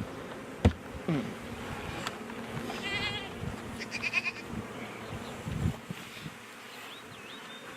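Swarm of honeybees buzzing in a steady hum around an opened hive, with a sharp knock about a second in and a few short, wavering high-pitched calls.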